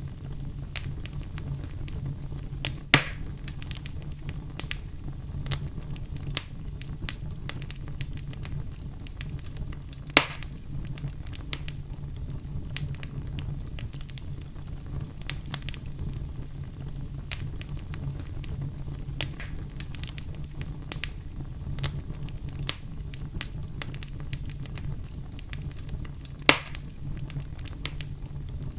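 Wood fire crackling steadily in a fireplace, with irregular small snaps over a low rumble and three louder pops, about 3, 10 and 26 seconds in.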